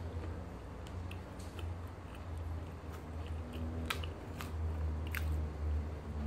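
Close-up mouth sounds of a person chewing and biting roti prata with lettuce filling, with a few sharp crisp clicks a little past the middle, over a low steady hum.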